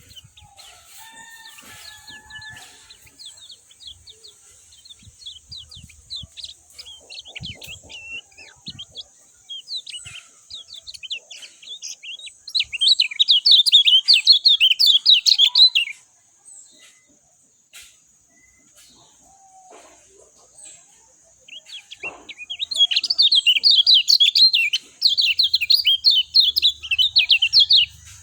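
Kecial kuning (white-eye) song: rapid, high twittering chatter, softer through the first part, then two loud dense bursts, one of about three seconds around the middle and a longer one near the end. A steady high hiss runs underneath.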